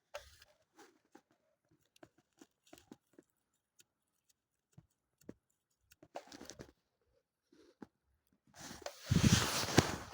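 Dry leaves rustling and crunching as they are handled: scattered small crackles, a short burst of rustling about six seconds in, then much louder close rustling and handling near the end.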